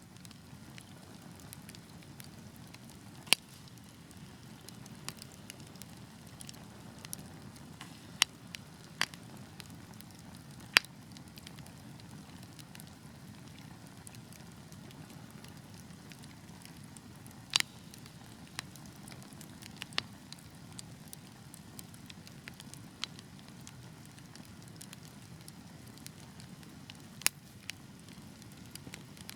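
Wood fire burning with a steady low hiss of flames and irregular sharp crackles and pops from the logs, a few of them much louder than the rest.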